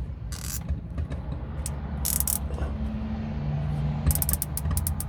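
A nylon cable tie being pulled through its ratchet head, a quick run of sharp clicks about four seconds in, after a brief scrape of handling. A steady low hum runs underneath.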